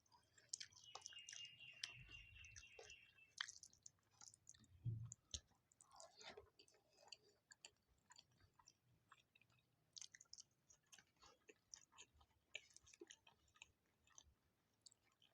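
Close-up chewing and mouth sounds of someone eating rice and curry: many small, quick clicks throughout. A single louder low thump about five seconds in.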